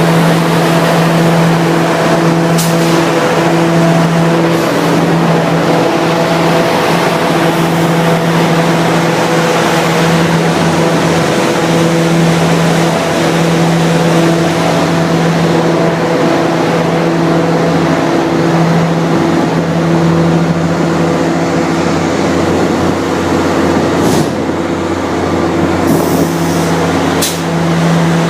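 Diesel locomotive engine running steadily at constant speed, a low hum with a broad mechanical rumble. Brief hisses of air come a few times, mostly near the end.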